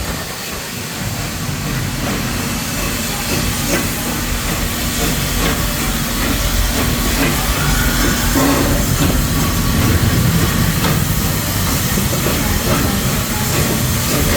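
Theme-park train rolling into a station: a steady rumble and hiss, with scattered clicks from the wheels and a steady low hum that stops about eight seconds in, growing slowly louder as it approaches.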